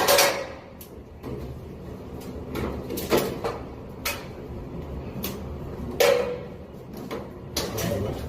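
A few sharp knocks and clicks, spaced a second or more apart, from hands working on an air-conditioner fan coil unit during installation.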